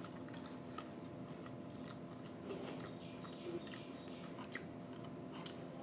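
A person chewing and eating, with scattered small clicks and crunches.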